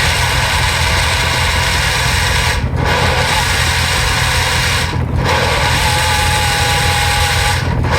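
Electric blender running on simmered sauce, cut off briefly three times and restarted, like pulsing, over a steady low rumble.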